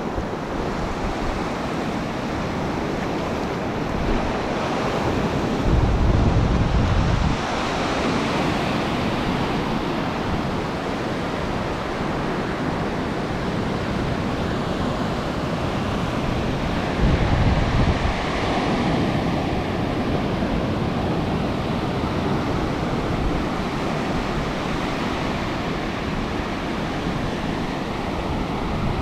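Ocean surf washing on a beach as a steady rush, mixed with wind buffeting the microphone; there are two louder low surges, about six seconds in and again about seventeen seconds in.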